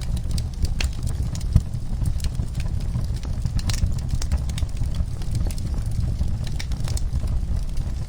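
Wood fire in a fireplace crackling, with irregular sharp pops, one louder about one and a half seconds in, over a steady low rumble of the flames.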